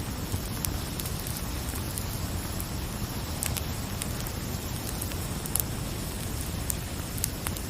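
Crackling fire: a steady low rumble of flames with sharp pops and snaps at irregular moments, about ten in all.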